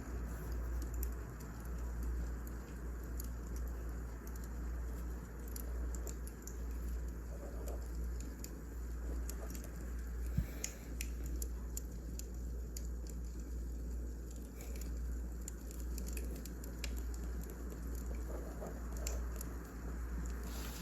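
Wood fire burning, with irregular crackles and pops over a low steady rumble; one sharper pop about ten seconds in.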